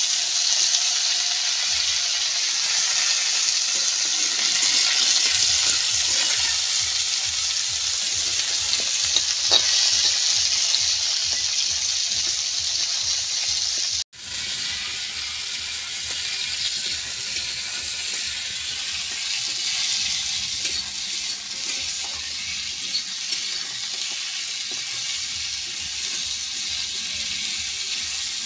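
Raw mango pieces sizzling in hot mustard oil in a metal kadai, just added to the oil and being stirred, with the metal spatula scraping the pan. The sizzle breaks off for an instant about halfway and goes on a little softer.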